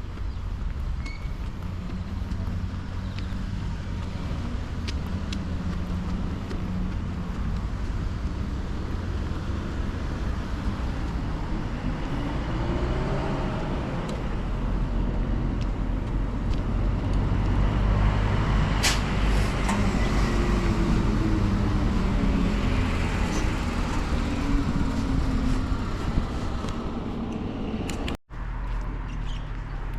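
Road traffic: a steady rumble of passing motor vehicles, with engine pitch sliding as they go by, loudest a little past the middle. The sound drops out for an instant near the end.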